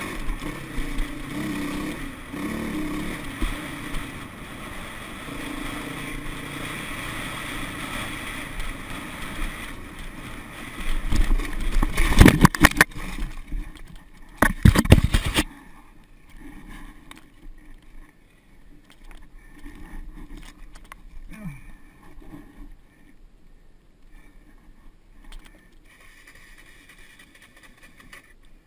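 Dirt bike engine running while ridden, with loud bursts of noise about eleven and fourteen seconds in; after about fifteen seconds the sound drops to a much quieter, faint engine.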